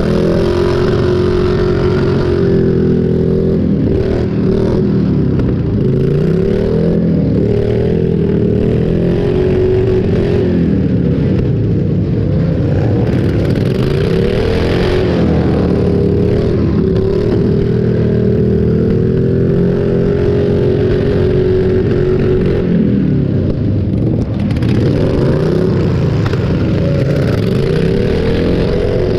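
Several tractor engines running at once, revving up and down, their pitches rising and falling and overlapping throughout.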